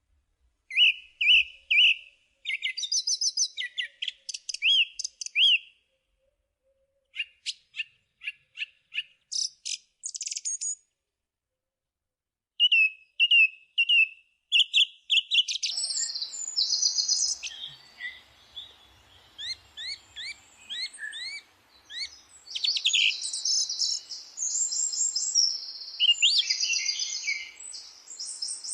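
Several songbirds singing in repeated short phrases of chirps and rising whistles, with brief silent gaps in the first half. From about 16 s a faint steady hiss joins and more birds call over one another.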